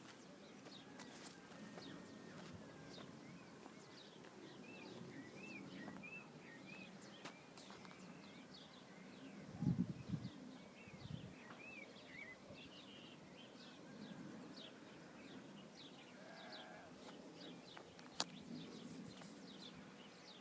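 A farm animal bleating, one loud call about ten seconds in and a weaker one a second later, over faint steady bird chirping.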